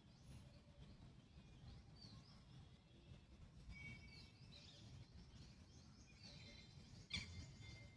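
Faint, scattered bird calls from a red-wattled lapwing: short high chirps over a low rumble of outdoor background noise, with one louder, sharper call about seven seconds in.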